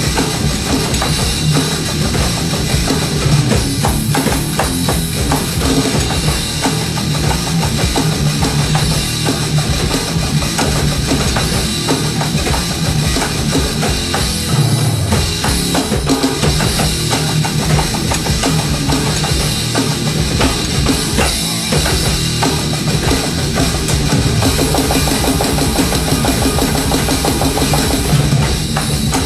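A live band playing an instrumental passage, with a busy drum kit (bass drum and snare) to the fore over steady, loud, dense backing.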